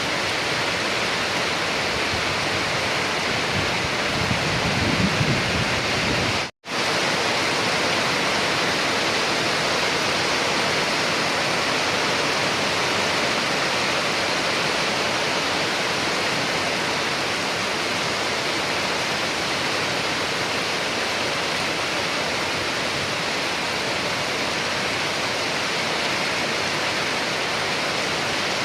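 Steady heavy rainfall, an even wash of noise, with a brief low rumble about five seconds in. The sound cuts out completely for a split second about six and a half seconds in.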